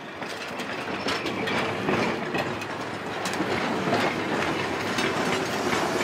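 A passenger train pushed by a steam locomotive rolling past close by, its wheels clicking over the rail joints. It gets louder as the tender and locomotive go by.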